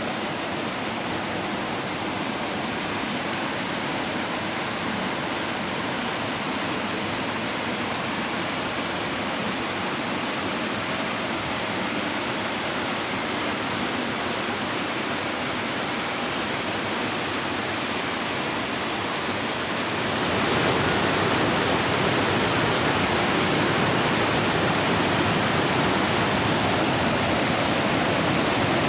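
Rushing water of the Sanddrif River and its cascades, a steady even rush that grows louder about 20 seconds in.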